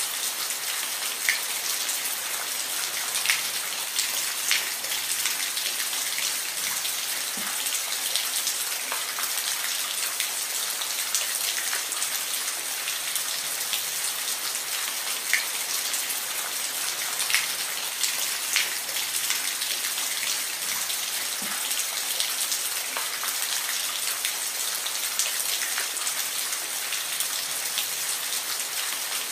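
Steady rain with individual raindrops ticking sharply against a surface, over an even hiss.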